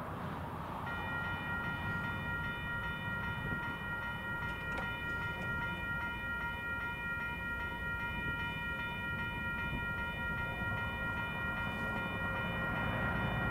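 Union Pacific freight train rumbling as it approaches a grade crossing, with the crossing bell ringing steadily from about a second in.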